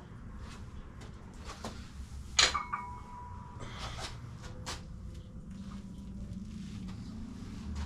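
Metal gym equipment being handled: a sharp metallic clank about two and a half seconds in that rings briefly, with a few lighter knocks and clicks around it.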